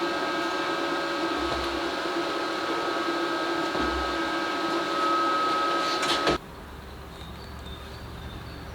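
A small electric motor running steadily with a fixed whine, switched off suddenly about six seconds in, leaving a faint low hum.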